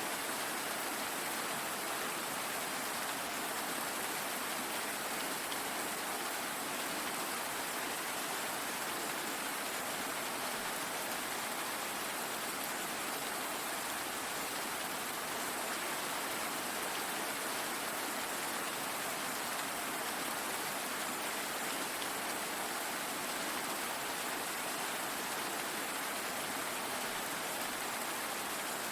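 Steady rain falling, an even hiss of drops on surfaces that does not change.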